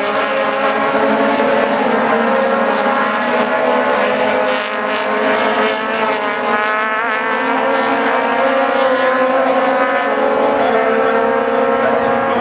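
Several Aussie Racing Cars at high revs with their Yamaha 1000cc four-cylinder motorcycle engines, a steady high-pitched howl of several engines whose pitches drift slowly up and down.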